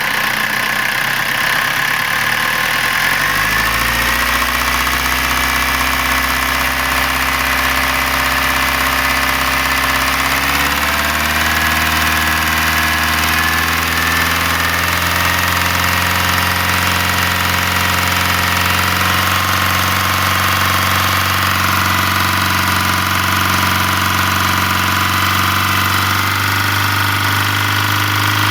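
Engine running steadily with a knock. Its speed rises about three seconds in and again about ten seconds in, then holds.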